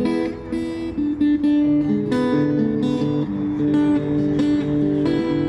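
Background music: acoustic guitar played with rhythmic plucked and strummed chords.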